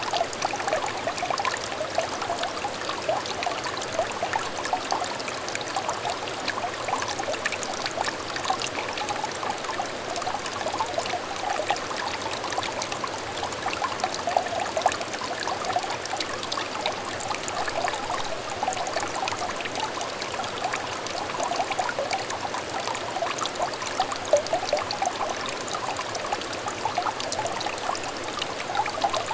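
Shallow stream trickling steadily, a continuous babble of small burbles and splashes.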